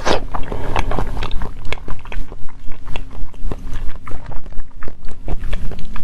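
Close-miked mukbang eating of jelly figures: repeated wet bites and chewing, with short mouth clicks coming a few times a second.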